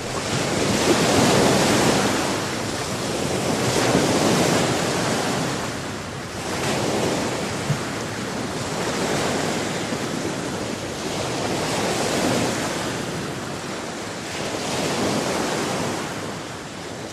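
Sea waves washing onto the shore, each surge swelling and fading about every two to three seconds.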